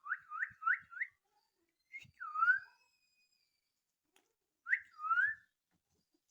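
Young Alexandrine parakeet chick giving whistled calls: four quick rising chirps, then two longer swooping calls a couple of seconds apart.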